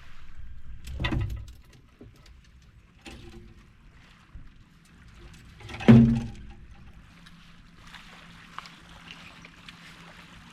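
Two heavy thumps, one about a second in and a louder one near six seconds, among light knocks and rustling, with wind rumbling on the microphone at the start.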